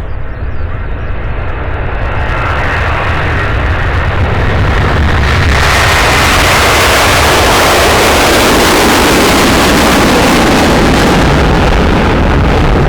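Jet airliner engines at take-off thrust. The noise builds over the first five seconds or so as the aircraft comes closer, then holds loud and steady.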